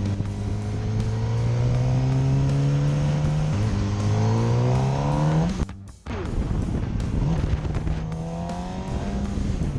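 Motorcycle engine accelerating hard, its pitch climbing through a gear change. The sound cuts out sharply about six seconds in, then the engine is heard again, rising once more near the end.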